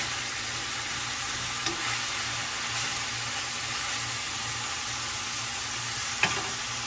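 Ground chuck (80% lean, 20% fat) sizzling steadily as it browns in a frying pan, with a few sharp clicks, likely a utensil against the pan, near the start, about two seconds in and near the end.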